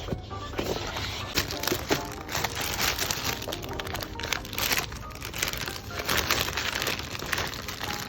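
Packing material crinkling and rustling as it is handled and wrapped, in a run of irregular crackles.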